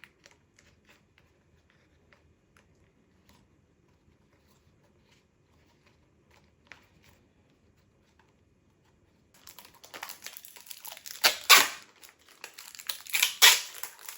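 Faint scattered clicks of handling, then from about nine seconds in, loud crinkling and tearing of tape being pulled and handled while patching a car's air intake.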